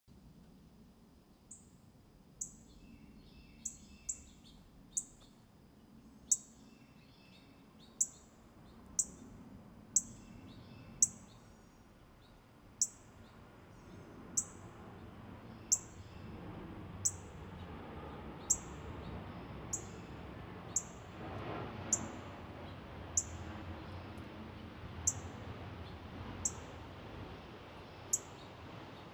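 Small songbird repeating a short, high chirp that drops in pitch, about once every second or so. Softer, lower twittering from another bird runs under it for the first dozen seconds.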